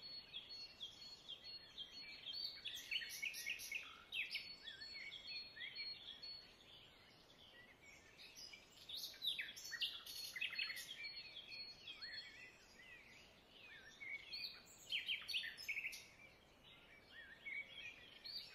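Wild birds chirping: many short, quick chirps, faint overall, with a thin steady high tone under them for roughly the first twelve seconds.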